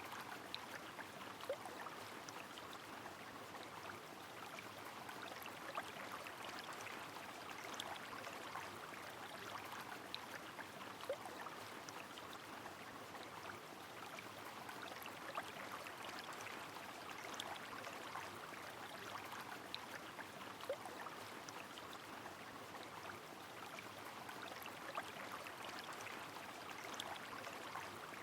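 Rain over a flowing river: an even, steady rushing, with scattered single drops ticking sharply through it.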